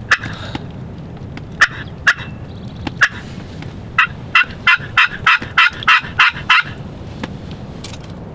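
Wild turkey yelping: a few single yelps, then a run of about nine evenly spaced yelps, roughly three a second.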